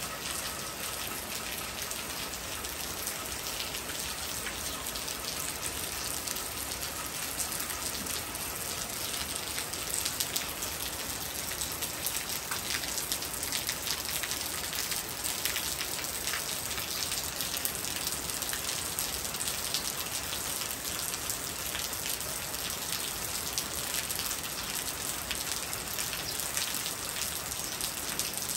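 Rain falling steadily: a continuous hiss with a dense patter of drops.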